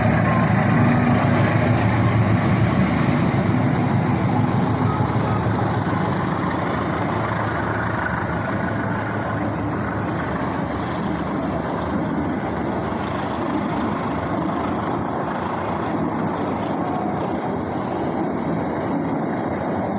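Train going by: a steady rumble of wheels and engine, loudest at first and slowly fading from about six seconds in.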